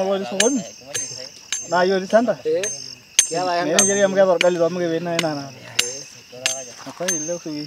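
Voices singing, with a sharp metallic ting struck about twice a second to keep time; crickets chirp steadily behind.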